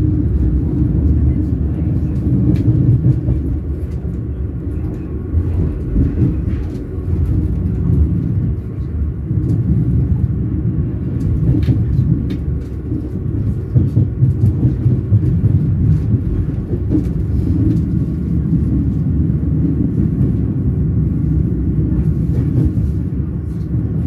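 Train wheels rolling on the rails: a steady low rumble with scattered sharp clicks and knocks.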